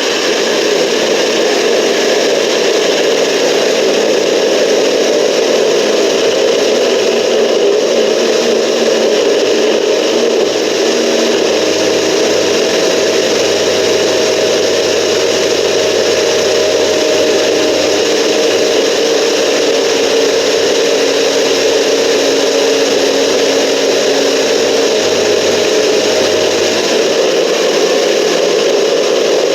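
Countertop blender running steadily, blending frozen fruit and juice into a smoothie.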